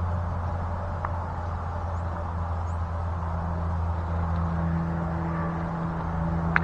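Steady low mechanical hum, holding one pitch throughout.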